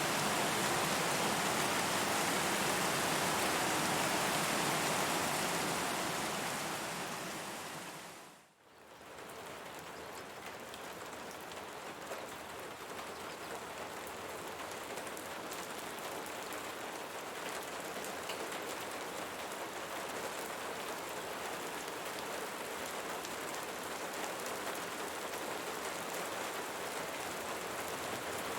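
Steady rain, a dense even hiss. It fades out to almost nothing about eight seconds in, then fades back in a little quieter with more distinct individual drops pattering.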